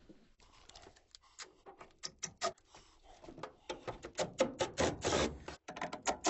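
Irregular metal clicks and short scrapes of hand tools working the mastic-covered screws on a gas furnace's collector box. The clicks are sparse at first and come thick and fast from about two seconds in.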